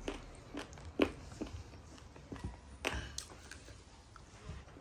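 Close-miked eating sounds: a person chewing a mouthful of rice and curry, with scattered short wet smacks and clicks, the loudest about a second in and another near three seconds.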